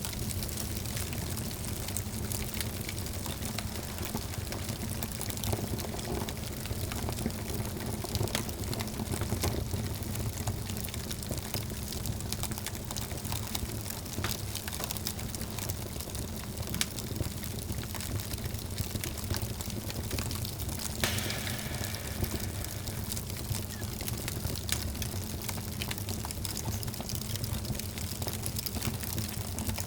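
Wood fire burning in a fireplace, crackling with frequent small sharp pops over a steady low rush of flame. A brief hiss comes about two-thirds of the way through.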